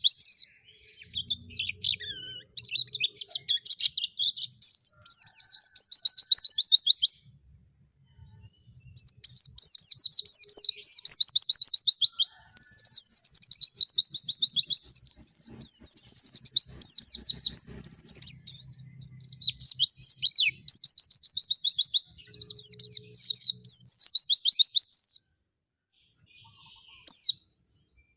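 Pleci (white-eye) singing vigorously in long, rapid, high-pitched twittering trills, phrase after phrase with only brief pauses, in the busy wild style of song used to train other songbirds.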